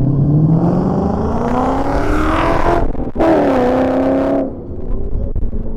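Race-prepared pickup truck engine accelerating hard on an autocross course: its note climbs steadily for nearly three seconds, breaks sharply for an instant about three seconds in, carries on at a higher pitch that sags slightly, then falls away about four and a half seconds in as the throttle comes off.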